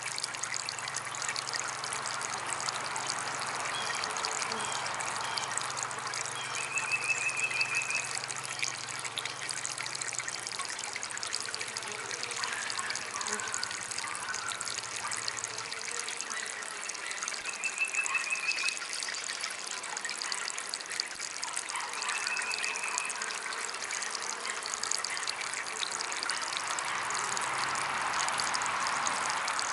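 Water trickling steadily in a small DIY garden water fountain. A low hum runs under it, stops about halfway through and comes back near the end.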